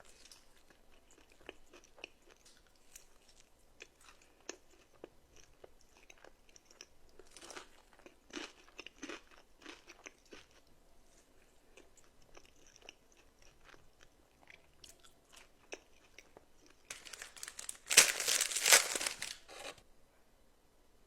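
Close-miked eating: scattered crunchy bites and chewing. About 17 seconds in comes a much louder burst of dense crunching noise lasting about three seconds.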